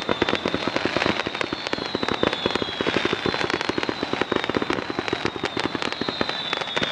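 Fireworks display going off in a dense, rapid barrage of pops and crackles, with high thin whistles slowly falling in pitch over it.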